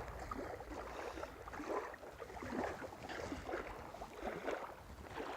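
Wind rumbling on the microphone with small waves lapping irregularly at the water's edge.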